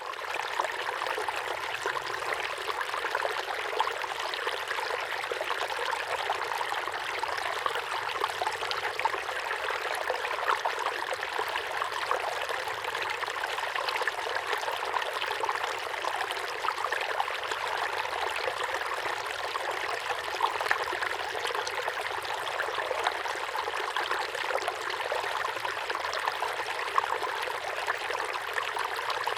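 Small waterfall pouring steadily into a pond: a continuous, even rush of falling water with a light trickling texture.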